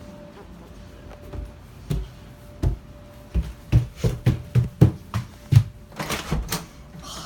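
A quick run of about ten hard knocks and thumps, close together, then a brief rustle near the end.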